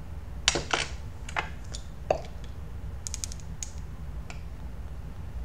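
Small clicks and taps of an e-liquid dropper bottle and a dripping atomizer being handled as juice is dripped, with a quick run of clicks about three seconds in.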